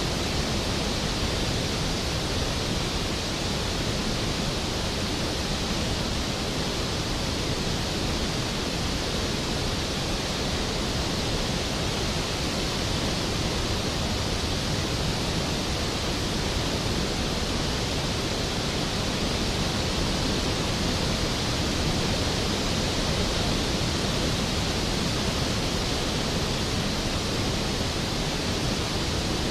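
Large waterfall, Skógafoss, pouring onto its plunge pool: a loud, steady rushing roar with no breaks or changes.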